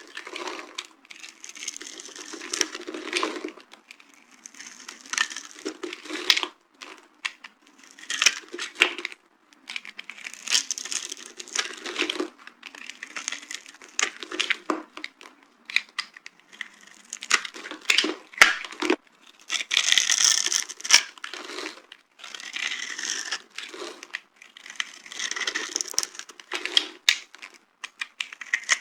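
Dry bar soap being crushed and crumbled, crunching and crackling in repeated short bursts with brief pauses between them, with sharp snaps here and there.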